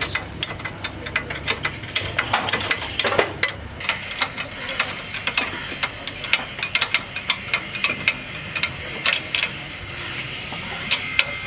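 Irregular metallic clicks and knocks of hand tools working on metal parts, several a second with pauses, over a low background hum.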